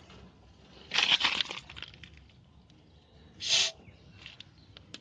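Aerosol chain lube spraying onto a motorcycle chain in two short hissing bursts: one about a second in, lasting about half a second, and a shorter one a couple of seconds later.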